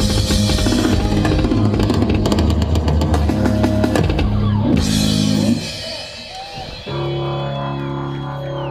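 Live rock band playing, with drums and guitar. A little past five seconds in the full band drops away, and about seven seconds in a steady held chord comes in.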